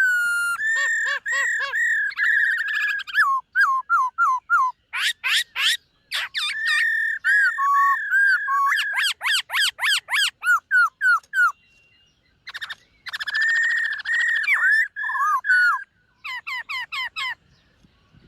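Black-throated laughingthrush singing: clear whistled phrases and rapid runs of repeated notes and glides, in bursts separated by short pauses.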